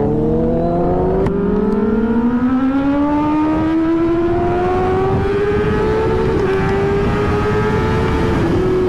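Kawasaki ZX-10R inline-four superbike engine running with its exhaust dB killer removed, pulling through a gear: the engine note climbs slowly and steadily, then levels off near the end.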